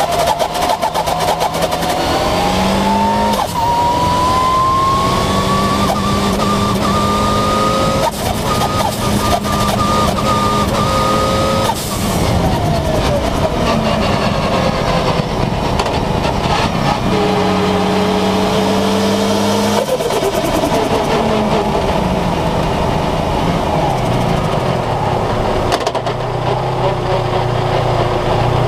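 Race car engine heard onboard during a hill climb, its pitch rising steadily as it accelerates, breaking off sharply about twelve seconds in, then running at lower revs and easing off, with a low steady engine hum near the end as the car slows at the finish. Wind and road noise run underneath.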